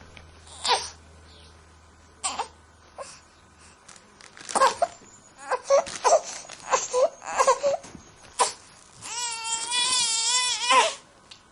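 Baby crying: short fussy cries and whimpers in broken bursts, building near the end into one long, wavering wail.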